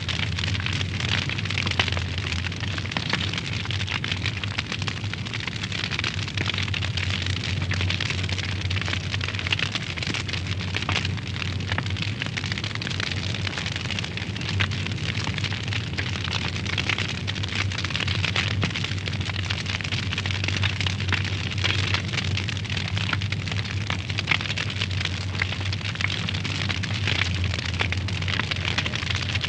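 Wood fire burning in a fireplace, crackling steadily with many small snaps and pops, over a steady low hum.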